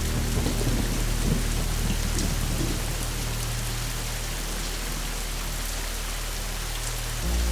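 Steady rain with a rolling rumble of thunder during the first few seconds, then the rain alone. Low sustained tones sit underneath, fading out midway, and new ones come in near the end.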